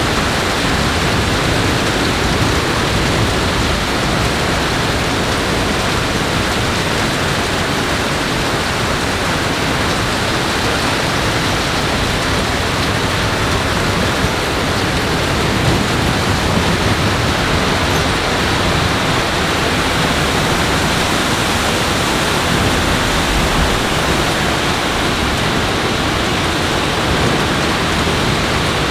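Steady, loud rushing of water with no let-up, like heavy rain or water pouring over a dam.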